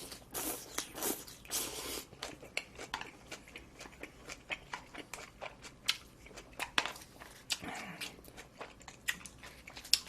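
Close-miked chewing of a mouthful of barbecued meat wrap. The first two seconds are denser and crunchier, then come many sharp, wet mouth clicks and smacks.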